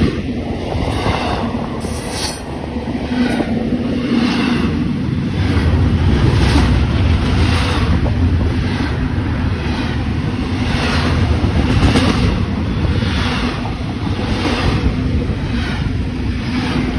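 Train cars rolling past over a low rumble, the wheels clicking over rail joints in a steady rhythm.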